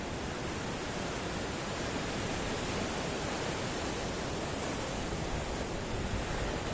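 Ocean surf: a steady wash of breaking waves with no single wave standing out.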